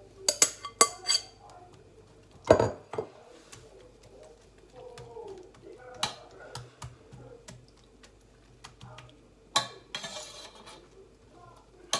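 Metal utensils clinking and knocking against a pan and bowl while an omelette mixture goes into a skillet: a quick run of sharp clinks at the start, a heavier knock a couple of seconds in, then single clinks spaced out, over a faint steady hum.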